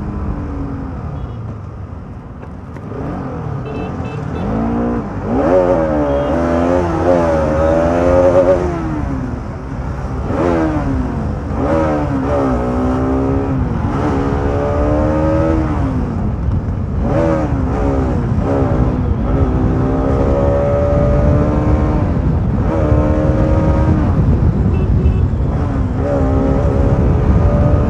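Motorcycle engine under hard acceleration in a drag race, pulling up through the gears. The pitch climbs and drops back again and again, with a steady low rumble underneath.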